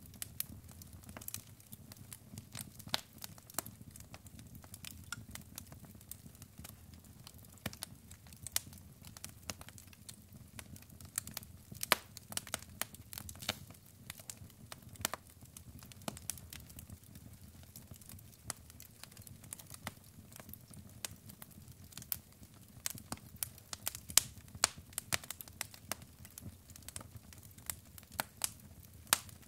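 Wood fire burning in a fireplace, crackling with irregular sharp pops and snaps over a low steady hum of the flames.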